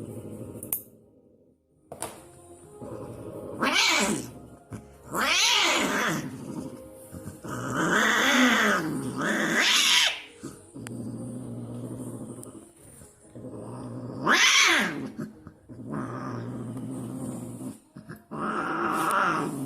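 Angry domestic cat growling in a steady low drone, breaking into about six loud yowls that rise and fall in pitch.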